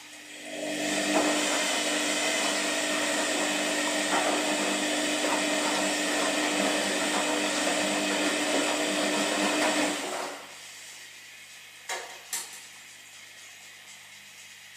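Washing machine motor running with a steady hum and whirring noise, starting about half a second in and cutting off about ten seconds in, followed by two short clicks.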